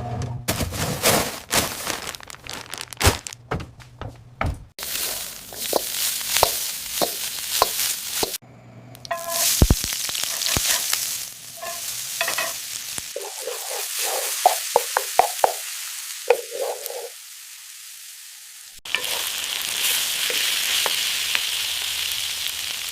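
Food sizzling and being stirred, as in frying, broken up by sharp clicks and knocks in the first half. A steady sizzle fills the last few seconds.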